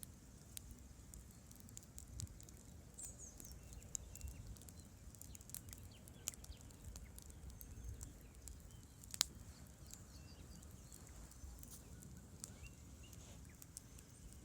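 Wood campfire crackling, with irregular sharp pops and one louder snap about nine seconds in, over a low steady rumble.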